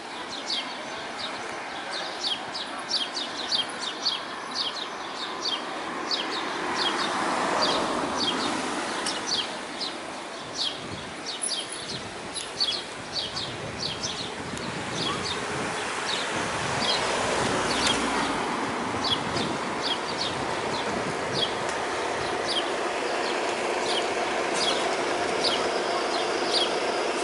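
Small birds chirping over and over, short high chirps about two a second, over steady street noise. Traffic swells past twice, about seven seconds in and again near eighteen seconds.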